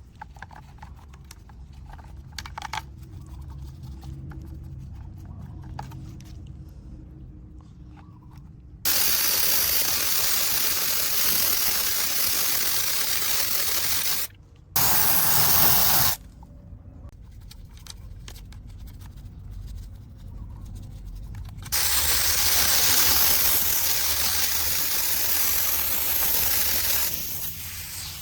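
A spray nozzle hisses in three long bursts, about five seconds, one second and five seconds long, each starting and stopping abruptly. Between the bursts there are small clicks and handling noises over a low hum.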